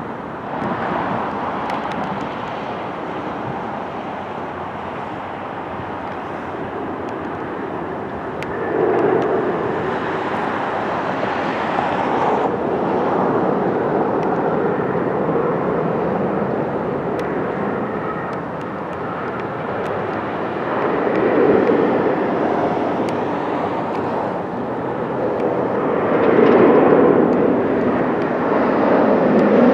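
Outdoor ambience: a steady rumbling noise that swells louder four times, as things pass by.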